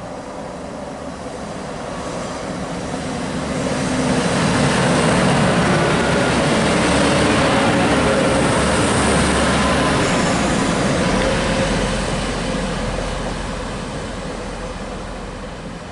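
TransPennine Express Class 185 diesel multiple unit passing the platform at speed without stopping. The rush of wheels and underfloor engines builds to a peak about midway, then fades away.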